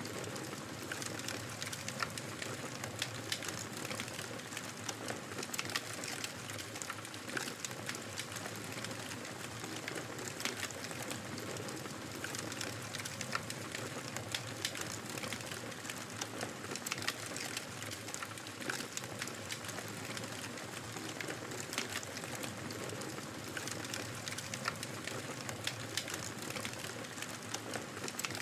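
Wood fire crackling steadily, with frequent small sharp pops and snaps over a soft continuous hiss.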